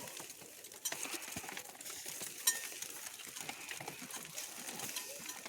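Small clicks, knocks and clinks, with one sharper metallic clink about two and a half seconds in.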